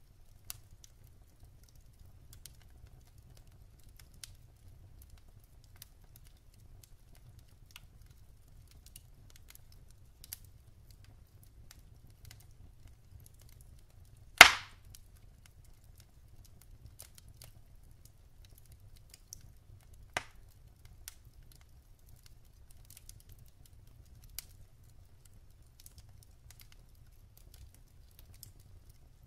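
Wood fire burning in a fireplace: sparse small crackles of the burning logs over a faint low rumble, with one loud sharp pop about halfway through and a smaller pop a few seconds later.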